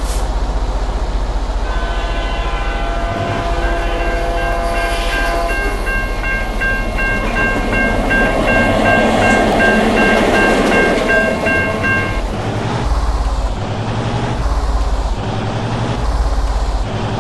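A multi-note air horn sounds a long chord for about ten seconds, starting a couple of seconds in, over a steady low rumble of heavy vehicles. A rushing noise swells and fades in the middle.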